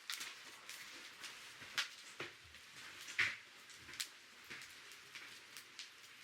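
Wood campfire crackling: irregular small pops and snaps over a faint hiss, with a few sharper snaps about two and three seconds in.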